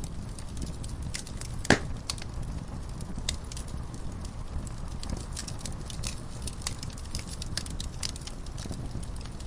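Wood fire burning in a fireplace: a steady low rumble with frequent small crackles and one loud sharp pop about two seconds in.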